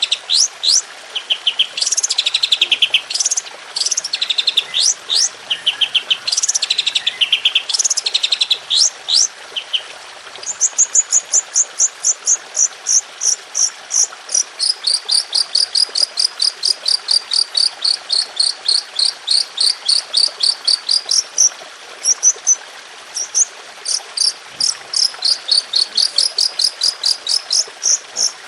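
A songbird sings high, sharp trills and varied phrases. About ten seconds in it breaks into a long run of rapid, evenly repeated shot-like notes, about four or five a second, over a steady background hiss.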